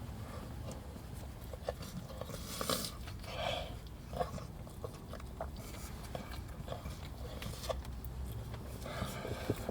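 A person chewing and biting into fried chicken, with scattered small mouth clicks and a few louder noisy moments.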